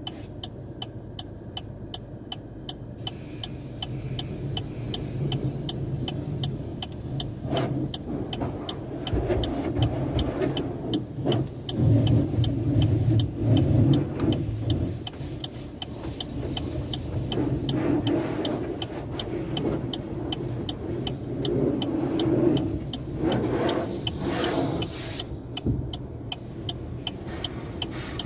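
Tunnel car wash machinery working over a car, heard from inside it: a low rumble and spray that swells and fades as the equipment passes. A faint steady ticking runs underneath, about two or three ticks a second.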